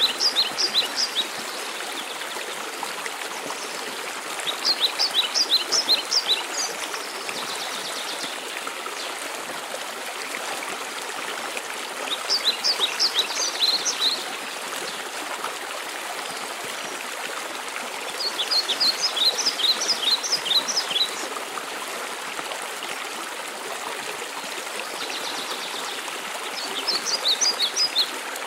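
Steady rush of a waterfall and stream, with a songbird singing a short phrase of quick, high notes about every seven seconds.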